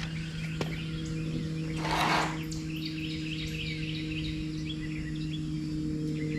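Small birds chirping over a steady low hum, with a brief hissing burst about two seconds in.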